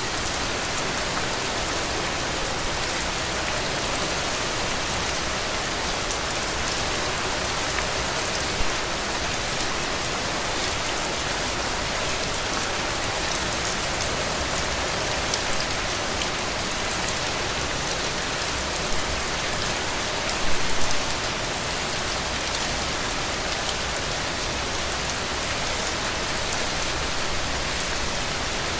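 Heavy rain falling steadily as an even hiss, with a few brief louder drop hits scattered through it, a small cluster of them about twenty seconds in.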